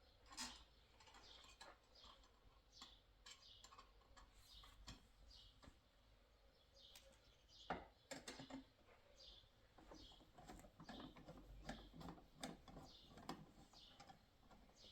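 Faint, quick chirps from small birds, each note dropping in pitch, repeating every second or so, with scattered soft clicks and taps, the loudest a little past halfway.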